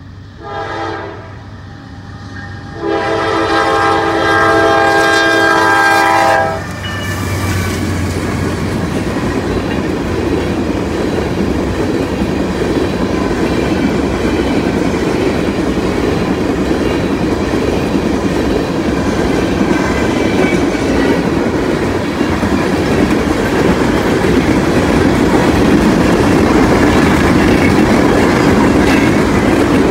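Norfolk Southern ballast work train's locomotive horn sounds a short blast, then a long blast of nearly four seconds. The ballast hopper cars then roll past over the crossing with a steady rumble and the clickety-clack of wheels on the rail joints.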